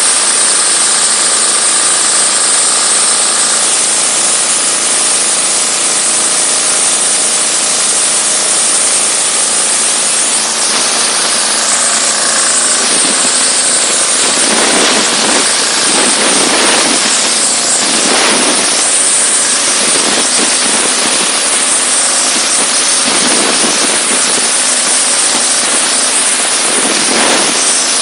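Diesel-engine-driven high-pressure washer running. Its jet makes a loud, steady hiss over the engine hum, and from about halfway on the rush swells and fades again and again.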